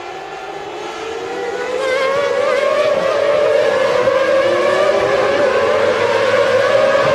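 Several 1996 Formula One car engines running at high revs together, many engine notes layered and wavering. The sound swells over the first two seconds, then holds loud.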